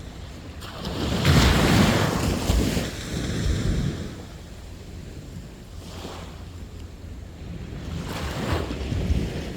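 Sea waves breaking on a beach: a large wave crashes about a second in and washes up, then a weaker surge follows. Another wave breaks near the end.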